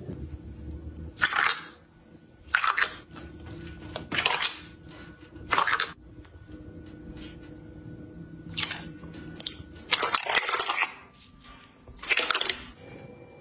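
Slime being pressed and squeezed by hand, in about seven separate short bursts of sound, each under a second long.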